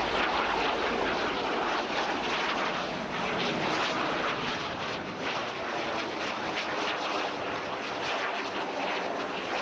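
Hawker Sea Hawk jet flying its display, its Rolls-Royce Nene turbojet a steady rushing jet noise that swells slightly now and then.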